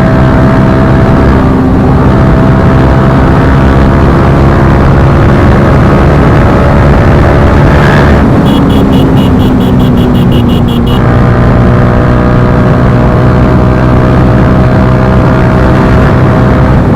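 Bajaj Pulsar NS160's single-cylinder engine running through an Akrapovic slip-on exhaust while the bike is ridden at fairly steady revs. The revs drop slightly about halfway through, and for a couple of seconds there is a quick run of evenly spaced ticks.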